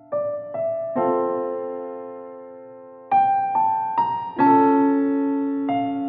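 Background piano music: a slow, gentle line of single struck notes with fuller chords about a second in and again about three and four seconds in, each note ringing and fading.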